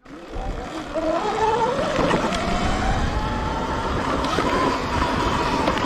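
Sur-Ron electric dirt bike's motor whining as the bike accelerates, rising in pitch over the first two seconds and then holding steady. Under it run a rough rush of wind and scattered knocks from riding over rough ground.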